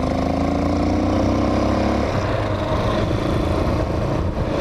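Hawk 250 motorcycle engine running under way, its pitch rising steadily and then falling away about two seconds in.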